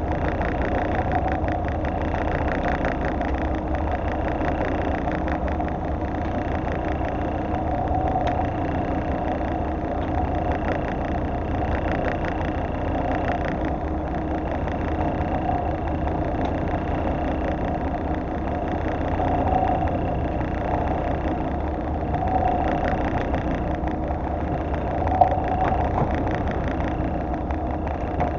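Fishing boat's engine running at a steady idle-like hum, with one sharp click about 25 seconds in.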